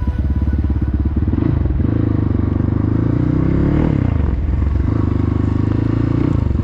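Motorcycle engine running under way, its pitch sliding down about three and a half seconds in, then holding steady again a second later.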